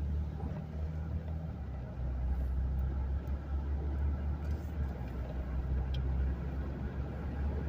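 Steady low rumble of a car's engine and road noise, with a few constant low tones under a light hiss.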